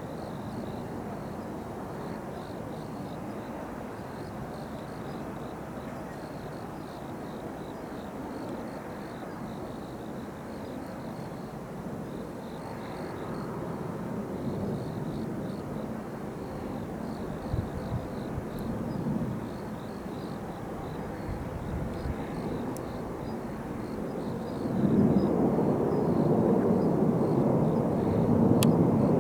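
Jet aircraft noise: a steady rumble that swells much louder about 25 seconds in.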